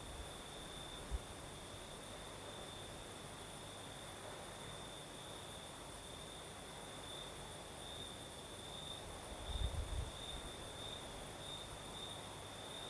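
Crickets singing in a steady, high, slightly pulsing trill over a soft hiss. About two thirds of the way through, a low rumble of breeze buffets the microphone.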